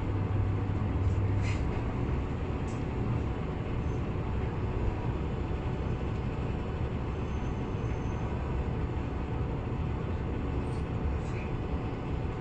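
Cabin noise of a Tsugaru Railway diesel railcar running along the line: a steady rumble of engine and wheels on rail, with a stronger low hum in the first second and a half and a few faint clicks.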